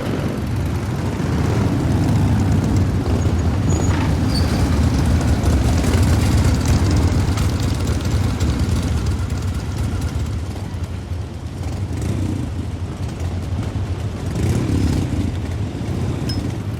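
A motor vehicle's engine running steadily with road noise, heavy in the low end.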